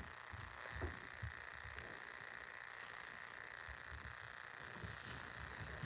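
Faint room tone: a steady hiss with a few soft low knocks, the clearest about a second in.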